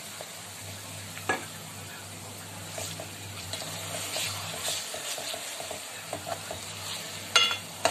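Ginger-garlic paste sizzling in hot oil as a steel ladle stirs it into frying onions and green chillies in a metal pot, with small scrapes of the ladle. There is a sharp knock about a second in, and near the end a louder knock of the ladle against the pot that rings.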